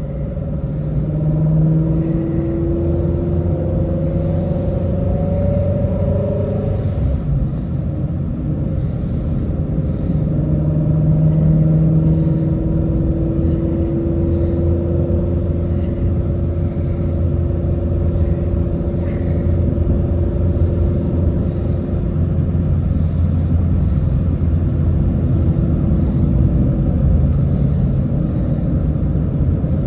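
Shelby GT350's 5.2-litre flat-plane-crank V8 cruising, heard from inside the cabin with road noise; its note stays steady, drifting slowly up and down in pitch.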